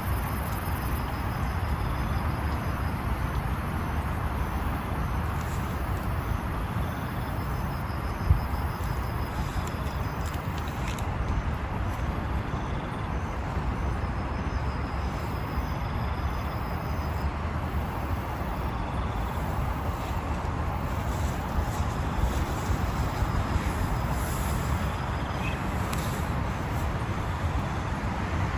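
Heavy rain falling steadily, with a deep rumble of wind beneath it; a single sharp knock about eight seconds in.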